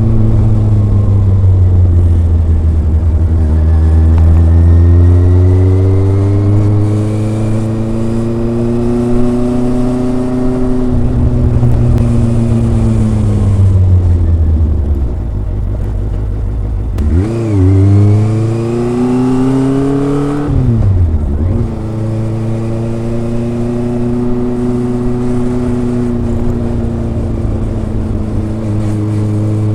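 Kawasaki ZRX inline-four motorcycle engine and exhaust under way, its pitch climbing and falling as the throttle opens and closes several times. About seventeen seconds in comes a quick rev blip, then a pull that drops off suddenly a few seconds later.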